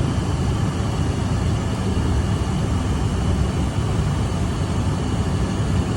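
Cessna Citation II business jet's twin Pratt & Whitney JT15D turbofan engines running steadily, a constant rumble with faint steady high tones and no change in level.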